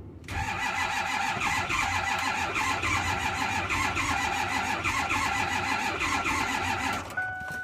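Ford F-250's 6.4 L Power Stroke diesel cranking on its starter in about 2-degree cold, turning over steadily for about seven seconds without firing, then stopping abruptly near the end.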